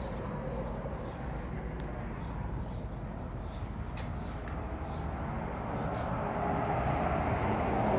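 High-pressure car wash wand spraying water against a mud-caked truck undercarriage, a steady hiss and rumble that swells louder near the end.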